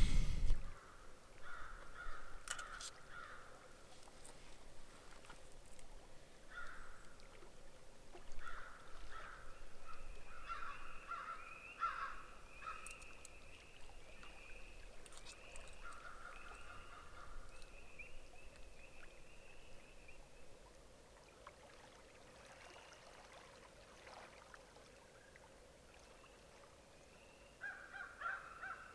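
Birds calling: a run of short, repeated calls, bunched through the first two-thirds and picking up again near the end.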